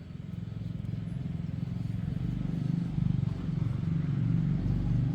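A motor vehicle's engine running with a steady low pulse, growing louder over the first few seconds and then holding.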